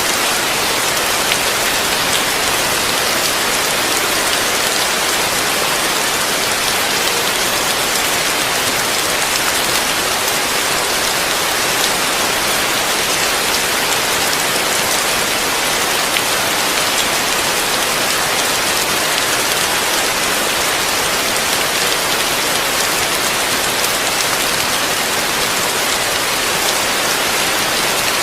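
Heavy rain falling on a roof, heard from underneath: a dense, steady hiss of drops that does not let up.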